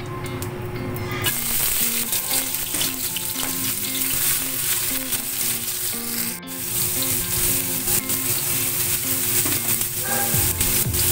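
Chopped onions sizzling in hot oil in a wok, a dense steady sizzle that starts about a second in as they are tipped into the oil.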